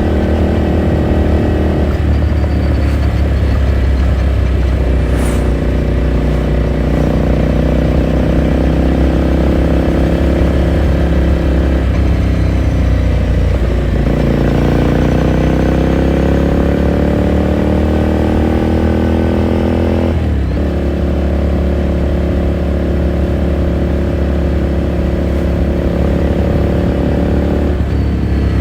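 Ducati Scrambler Sixty2's air-cooled L-twin exhaust heard onboard while riding. The engine note dips about halfway through, then climbs steadily for several seconds as it accelerates. It drops sharply at a gear change about two-thirds of the way in and then runs steady.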